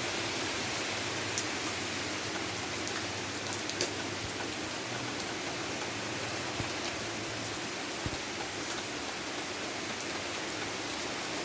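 Steady rain falling, an even hiss with a few louder drop hits now and then, the loudest about four seconds in.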